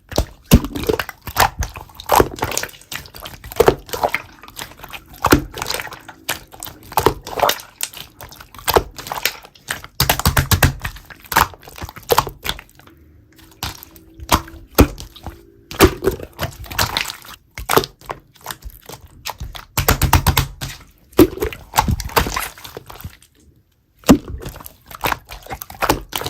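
Slime being squeezed and kneaded by hand: a steady run of wet clicks and crackling pops of trapped air bubbles, with a dull low press sound about every five seconds.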